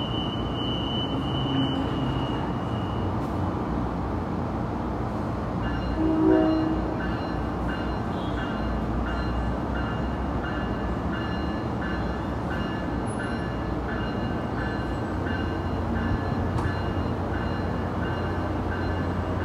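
Passenger train running through the station, a continuous steady rumble of wheels on rail. About six seconds in comes a brief horn toot, and from then on a high ringing tone pulses about every three-quarters of a second.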